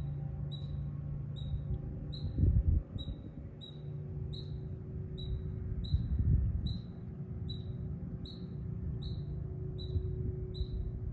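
A small animal's short, high chirp, repeated steadily about one and a half times a second, over a low rumble on the microphone with two louder low bumps, about two and a half and six seconds in.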